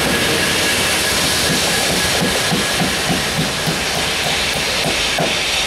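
Rail head treatment train with Class 66 diesel locomotives passing close by. Its high-pressure water jets on the rails give a steady loud hiss, and from about two seconds in the wheels click over rail joints about five times a second.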